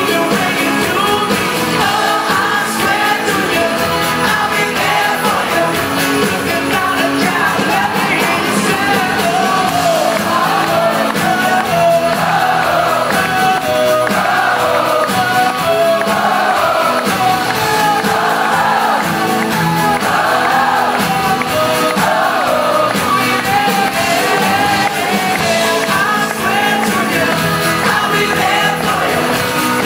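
Live pop-rock band playing continuously at full volume, with singing over the instruments.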